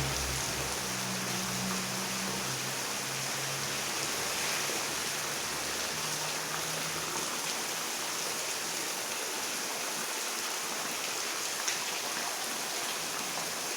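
Heavy rain falling steadily, an even hiss. A low hum lies underneath for the first six seconds or so, then fades.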